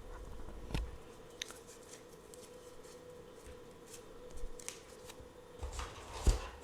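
Tarot cards being handled close to the microphone: scattered light flicks and taps of card stock, with a sharper knock about a second in and the loudest one near the end. A faint steady hum runs underneath.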